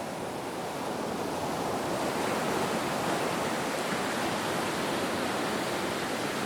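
Ocean waves: a continuous wash of surf that swells slightly about a second in and then holds steady.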